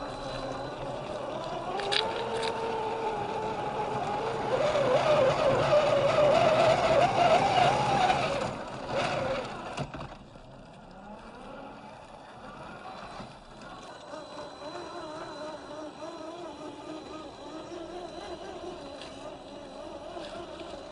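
Electric motor and geared drivetrain of a 1/10 scale RC crawler whining as it drives over dirt, the pitch rising and wavering with the throttle. A couple of sharp clicks come about two seconds in. The whine is loudest through the first half and drops to a quieter, lower whine after about ten seconds.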